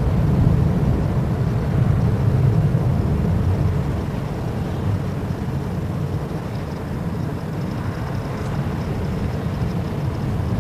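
Airbus A321 jet airliner taking off in a strong crosswind: a steady low rumble of its engines, with wind gusting across the microphone and a faint steady high whine.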